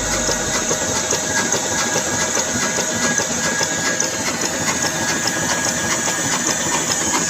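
Engine-driven flour mill machinery running: a steady, dense rapid clatter with hiss.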